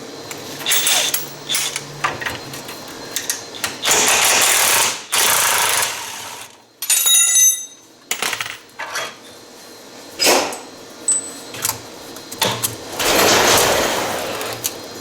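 Impact wrench hammering in several short bursts, loosening the suspension strut bolts on a side-by-side, with knocks of tools and parts between bursts.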